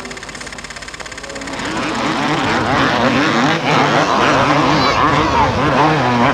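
Several motocross motorcycle engines revving, their pitches rising and falling over one another, growing louder about a second and a half in.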